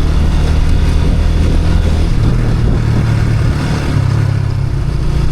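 Motorbike engine running loudly while riding, its note rising about two seconds in as it picks up speed.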